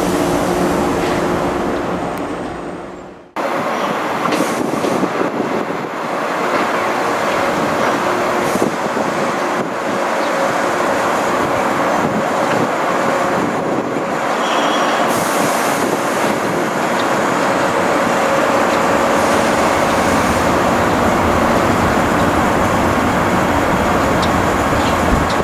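Electric train noise at a station platform: a steady rumble and hiss with faint steady tones. About three seconds in it fades and breaks off sharply, then resumes just as steady.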